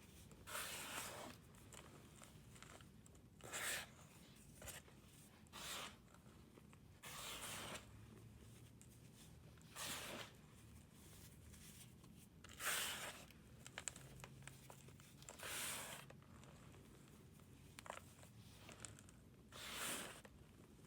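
Brittle material being crushed in short crunches, about ten separate crunches with pauses between them.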